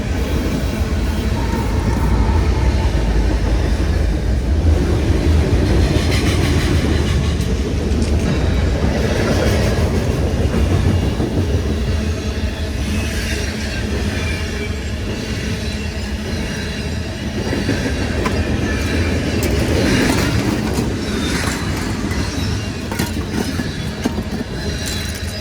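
Freight train cars rolling past in a steady heavy rumble, with wheels clacking over the rail joints toward the end and some high metal squeal from the wheels.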